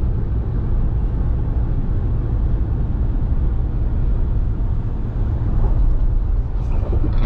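Steady low rumble of a vehicle travelling at speed: road and wind noise, with no clear engine note or rhythm.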